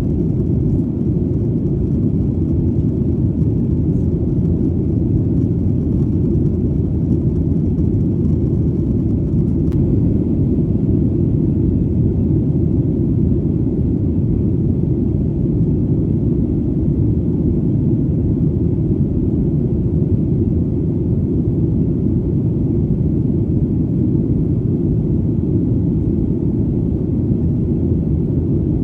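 Airplane engine drone in flight, a steady low rumble with no change in pitch or level.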